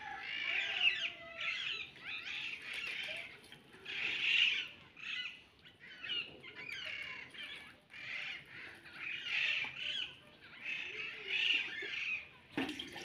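Birds chirping and calling in a busy run of short calls that keep going with only brief gaps.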